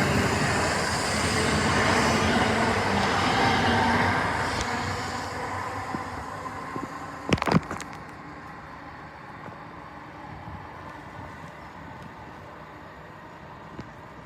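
A train running through the station, its rumble and rail noise loud at first, then fading away over several seconds. A short sharp knock comes about halfway through.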